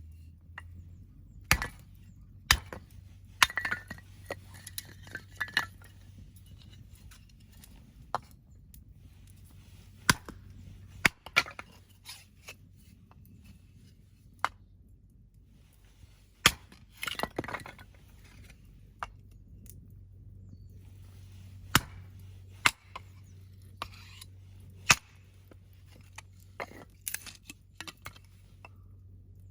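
Husqvarna axe splitting firewood: sharp cracks of the blade striking and splitting logs, a dozen or so at irregular intervals a second to several seconds apart, some followed by a short clatter.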